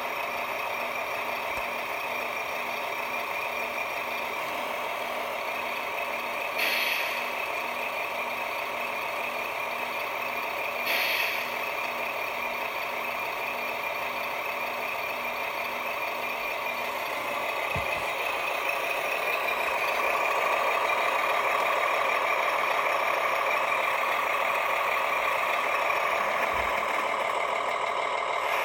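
1/16-scale WPL-style RC military truck running, a steady mechanical whir with a faint regular pulse underneath. Two brief bursts of hiss come at about 7 and 11 seconds, and the running sound grows louder about 18 seconds in.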